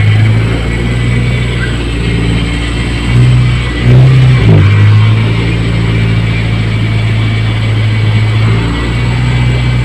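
Honda City car engine running with a steady low hum. It revs up briefly between about three and four and a half seconds in, then settles back to a steady idle, with the engine speed surging as it does while the car is acting up.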